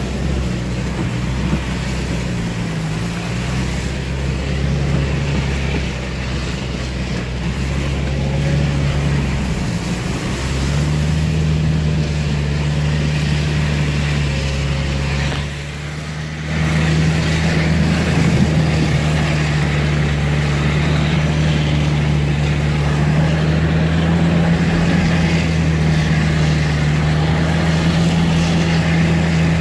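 Off-road vehicle's engine running under load in low gear while it pushes through deep mud and slush, heard from inside the cab, with the tyres churning the mud beneath. About halfway through the engine note drops for a second, then picks up again a little higher and louder.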